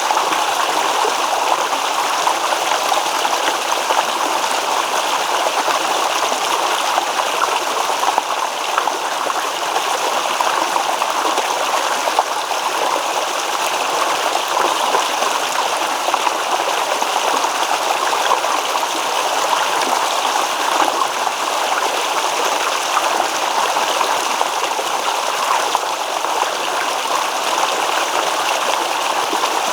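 A small stream babbling and gurgling over rocks, a steady, even rush of water.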